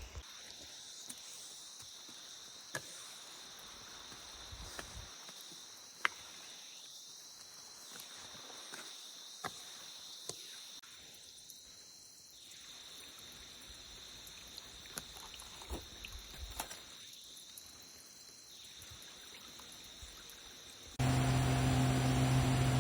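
Cicadas singing, a steady high-pitched drone, with a few faint clicks over it. About 21 seconds in, a louder steady hum with low tones cuts in suddenly.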